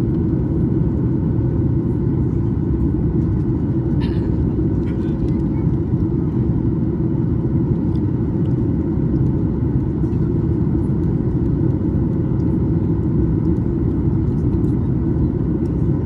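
Steady cabin noise inside a Boeing 737 MAX 9 airliner: a low, even rush of air and engine sound with faint steady hums above it, and a small click about four seconds in.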